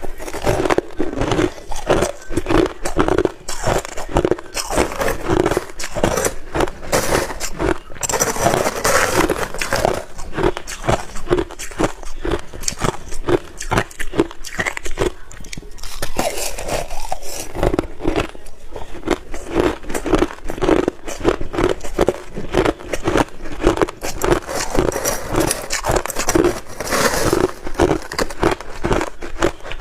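A person biting and chewing ice: rapid, continuous crunching and cracking, one bite after another.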